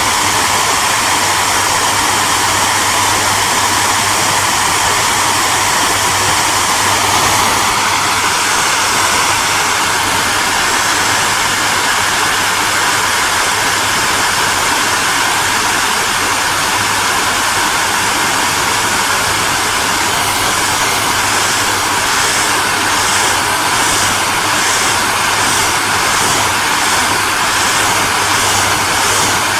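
Hair dryer running steadily: a constant rush of blown air over a low motor hum. About a quarter of the way in, the pitch of the rush shifts slightly upward, and in the last third a faint pulsing, about once a second, runs through the hiss.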